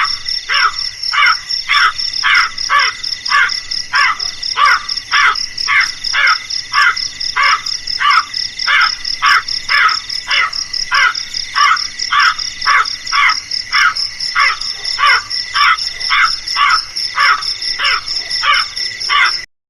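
Crow cawing over and over, about two harsh calls a second, over a steady high-pitched pulsing chirring. The sound cuts off suddenly near the end.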